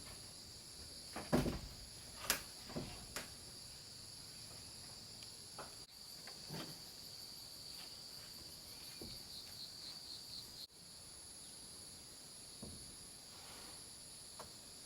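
Steady high-pitched insect chirring, with a few sharp knocks in the first three seconds, the loudest about a second and a half in, and fainter taps later.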